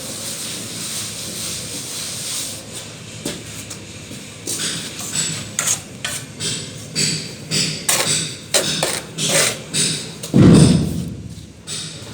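A steady background noise, then a run of short sharp knocks or scrapes, about two a second. A heavy thud near the end is the loudest sound.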